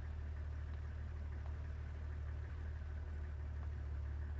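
A vehicle engine idling, a steady low even rumble with no change in speed.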